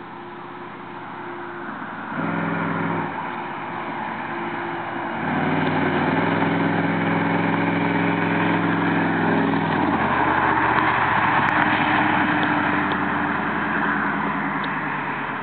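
1989 Chevrolet K1500's 350 V8 with stock headers, a 3-inch catalytic converter and no muffler, idling, then revved briefly about two seconds in. About five seconds in it is revved again and held steady for some five seconds before dropping back to idle.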